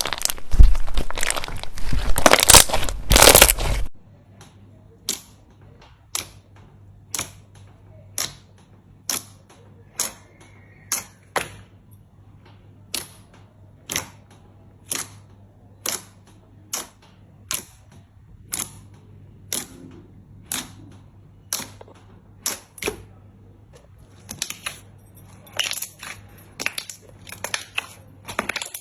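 Crunchy slime being squeezed with a loud, dense crunching, which stops about four seconds in. Then come single sharp clicks or pops about once a second for some twenty seconds, and crackling picks up again near the end.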